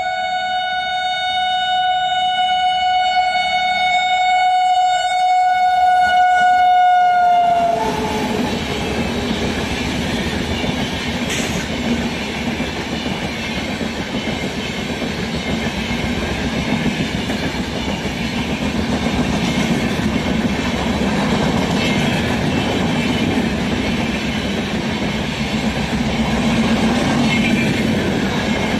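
Indian Railways train passing: the locomotive horn sounds one long steady blast that dips slightly in pitch as it cuts off about seven seconds in. The horn gives way to the loud, steady rush and rumble of the train's wheels running past on the rails.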